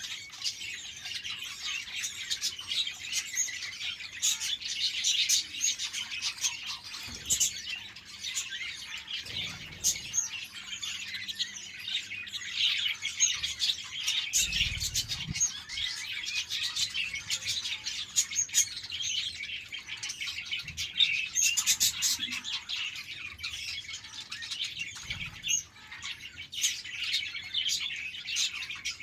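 A flock of budgerigars chirping and chattering in a dense, continuous chorus.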